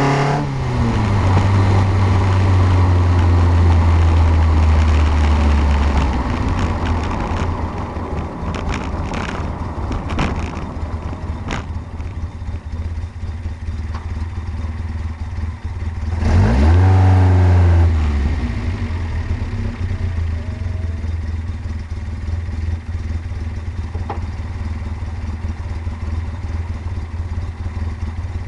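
Fiat X1/9 race engine on twin carburettors running: it holds a fast idle for about six seconds, then settles to a lower idle with a few sharp clicks. About two-thirds of the way through the throttle is blipped once, the revs rising and falling, before it drops back to idle.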